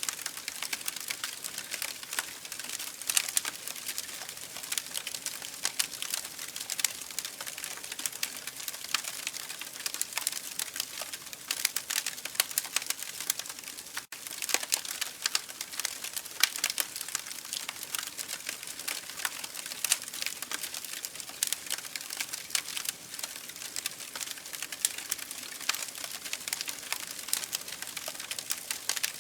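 Campfire crackling: a dense, irregular run of small pops and snaps over a steady hiss. The sound cuts out for an instant about halfway through.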